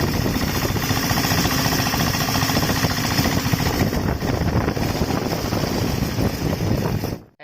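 Engine of a homemade diesel motorcycle running with rapid, even firing pulses. It cuts off suddenly near the end.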